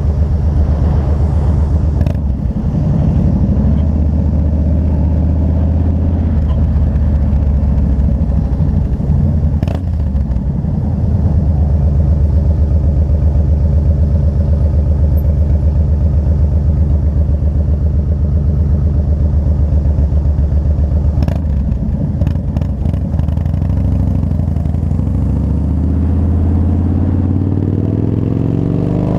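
2003 Yamaha Road Star V-twin motorcycle engine running under way at a steady speed. Its note dips briefly a few times, with a few short clicks, and rises near the end as it speeds up.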